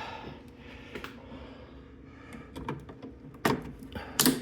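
Plastic headlight grill being pressed into a motorcycle fairing: a few light plastic clicks and taps, then two sharp snaps near the end as its clips pop into place.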